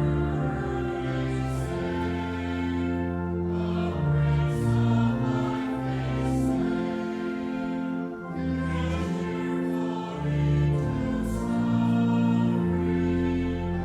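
Voices singing a slow hymn over sustained accompanying chords, with the harmony changing every second or so.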